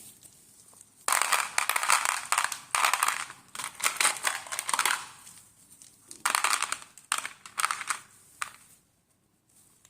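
Mothballs being crushed: dense crunching and crackling in two spells, one of about four seconds and then a shorter one of about two seconds.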